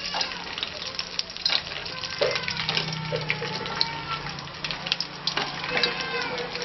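Curry leaves and green chillies sizzling in hot oil in a kadai, with scattered crackles and pops.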